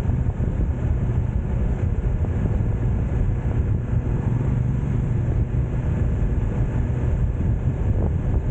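BMW S1000R inline-four engine running at a steady pace under way, mixed with wind rush on the microphone.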